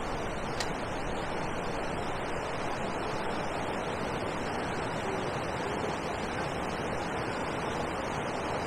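Steady rushing noise of wind on the microphone, with one faint click about half a second in.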